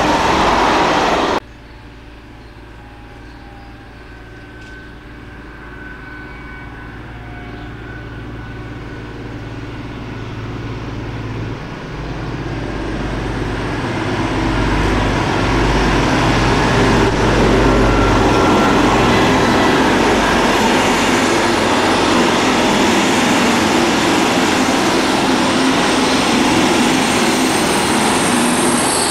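For about the first second and a half, the tail of a freight train's wagons rolling past. Then a diesel-hauled passenger train comes in, steadily louder: the locomotive's engine and the rumble of wheels on rail as it runs past the platform, with a thin high squeal near the end.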